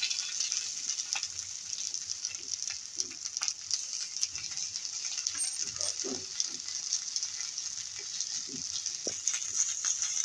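Potato cutlets sizzling in butter on a hot flat pan, a steady crackling hiss, with the spatula scraping and tapping against the pan as the cutlets are turned over one by one.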